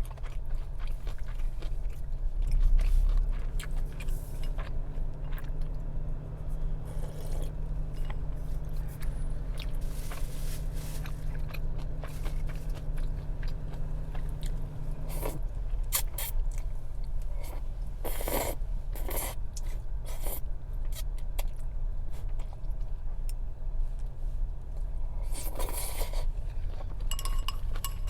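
Close-up eating sounds: chewing and crunching food, with scraping and clicking of chopsticks against dishes. A steady low hum runs underneath and stops about halfway through.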